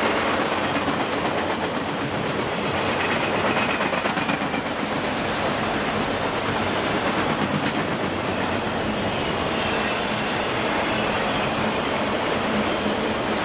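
Freight train rolling past on the rails: a steady rumble of wheels and cars, with wheels clicking over the rail joints.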